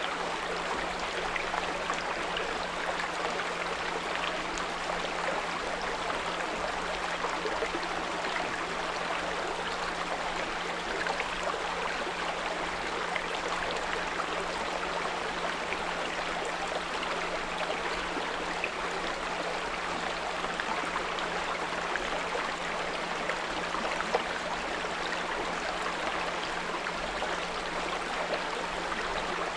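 Small brook babbling steadily, with a continuous 174 Hz pure tone humming underneath.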